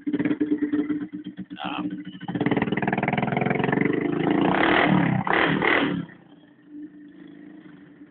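Honda TRX200 ATV's single-cylinder engine running through open exhaust stacks just after a cold start, revved for a few seconds. The sound drops off sharply about six seconds in.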